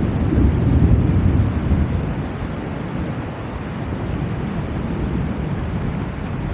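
Heavy summer downpour in gusty wind: a steady hiss of rain over a low rumble that swells about a second in, then settles.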